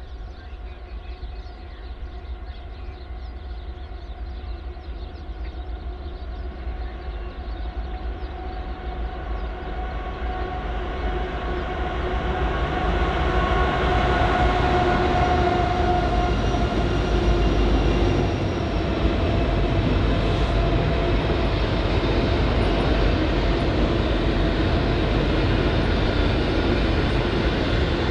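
Diesel-hauled train approaching, growing steadily louder over about fourteen seconds and then holding loud and steady as it rolls past, with steady tones running through the sound.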